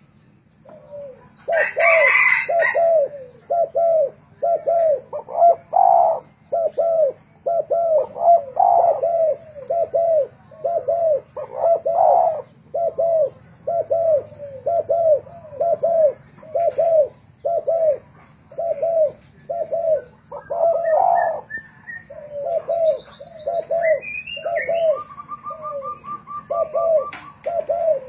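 Spotted doves cooing in an unbroken run of short, low notes, more than one bird calling against another. A brief sharp chirp comes about two seconds in, and a short rapid trill near the end, from other small birds.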